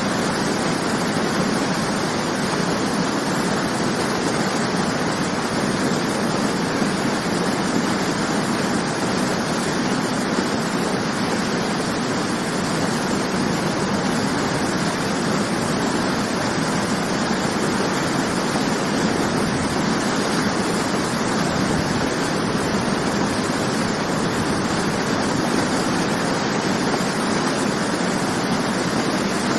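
Waterfall: water falling and splashing steadily, an even unbroken rush.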